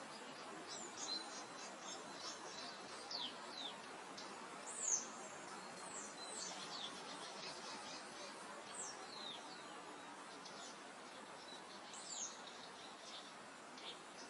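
Small songbirds calling with quick, high, down-slurred chirps, scattered irregularly and loudest about five seconds in, over a steady soft hiss of wind through meadow grass.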